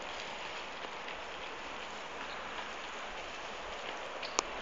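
Small bonfire crackling: a steady hiss with scattered small pops and one sharper pop near the end.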